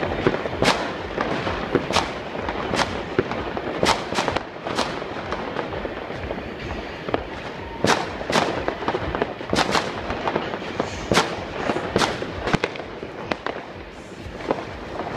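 Fireworks and firecrackers going off all around: a constant crackling din with sharp, irregular bangs about once a second.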